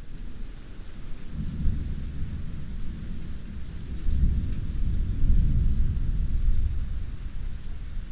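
Heavy rain falling steadily, with a long low rumble of thunder that swells about a second and a half in and is strongest around the middle.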